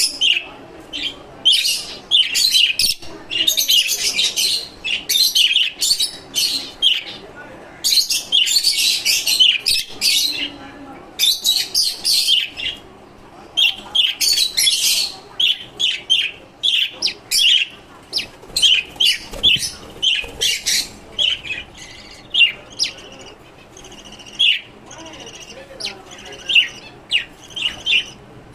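Caged lovebirds and finches chirping: many short, high chirps packed into thick bursts, thinning to scattered chirps near the end.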